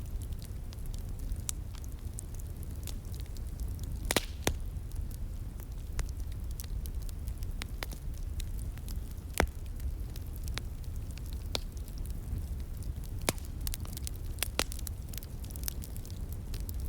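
Wood fire crackling, with irregular sharp pops, the loudest about nine seconds in, over a steady low rumble.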